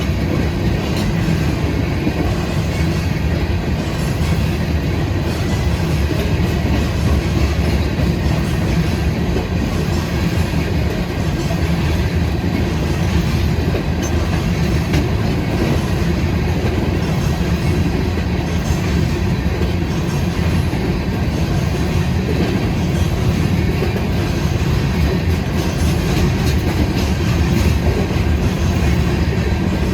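A train rolling past, its cars' wheels running steadily over the rails.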